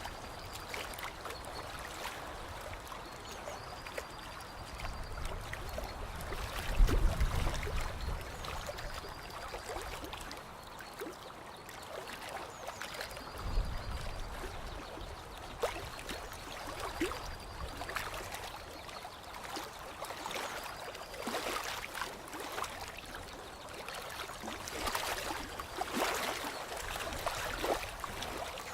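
Water trickling and lapping, with many small drips and splashes, and two brief low rumbles, the first a quarter of the way in and the loudest. A faint high note recurs every few seconds.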